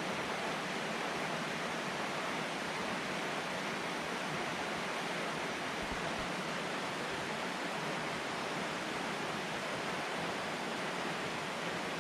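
Rain falling steadily: an even hiss that stays at one level throughout.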